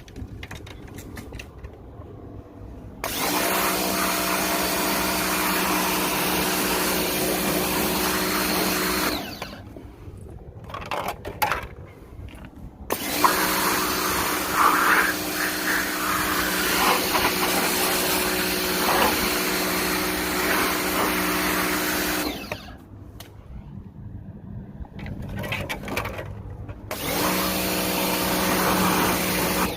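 Small electric pressure washer pump running and spraying water in three runs of several seconds each, a steady motor hum under a hiss of spray, stopping and restarting between runs.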